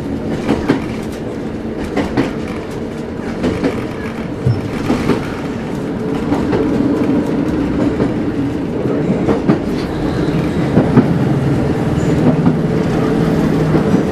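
Interior running noise of a diesel passenger train moving at speed: a steady engine drone and rumble of the carriage, with irregular clicks of the wheels over rail joints.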